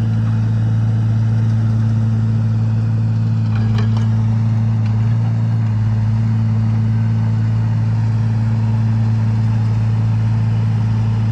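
Steady low hum of an engine running at idle, even and unchanging throughout.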